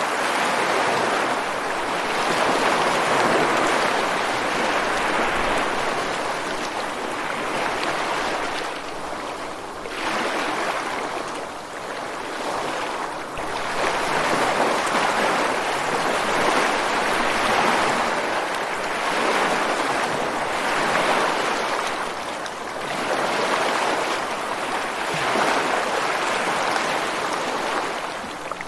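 Ocean surf breaking and washing up on a beach: a continuous rush of water that swells and eases every few seconds as each wave comes in.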